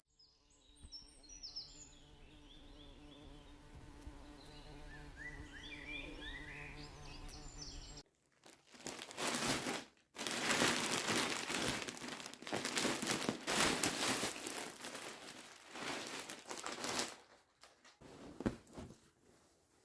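Crinkling and rustling of packaging being handled, in loud bursts through the second half. Before that comes a quieter stretch with faint short chirps over a low steady hum.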